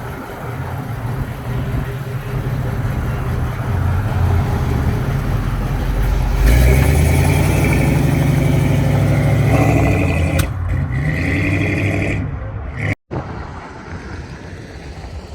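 Car engine running, revved up about six seconds in and held for a few seconds before dropping back. The sound cuts out for an instant near the end.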